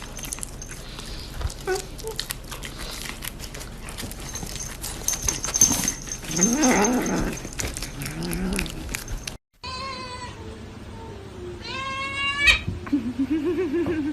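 Domestic cats meowing and yowling: a long, wavering call midway, then several shorter meows after a cut.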